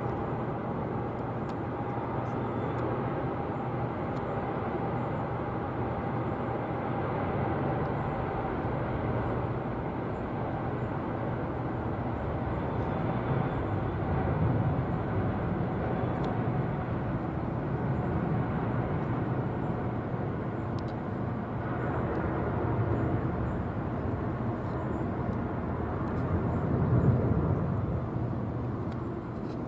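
Jet engines of a Boeing 777-200ER airliner departing, a steady loud rumble with a faint whine that fades out after about ten seconds.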